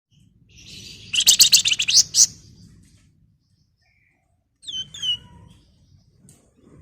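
Flamboyan songbird singing: a dense, rapid rattling trill of high notes for about a second, then after a pause a few sharp down-slurred whistles.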